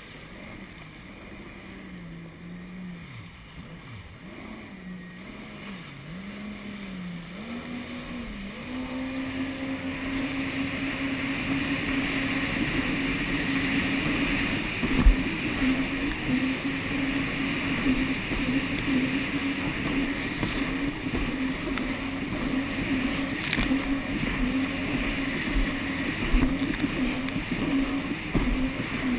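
Jet ski engine running, its pitch rising and falling with the throttle for the first several seconds, then climbing to a higher, steady pitch and growing louder as it holds speed. There is a single sharp knock about halfway through.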